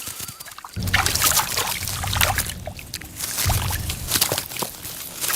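Water splashing and sloshing in quick, irregular bursts, starting about a second in.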